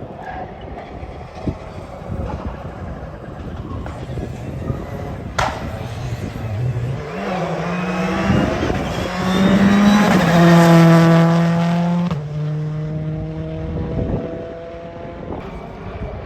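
Rally car engine revving hard as the car comes through the stage. Its note climbs and is loudest about ten to twelve seconds in, then drops abruptly in pitch and level. A single sharp crack sounds about five seconds in.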